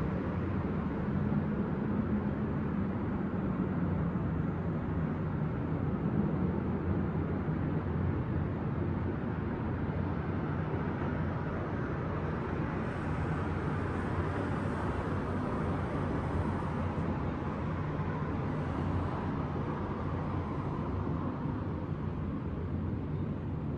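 Steady city traffic noise: a continuous low rumble of distant traffic with no single event standing out, the hiss brightening slightly about halfway through.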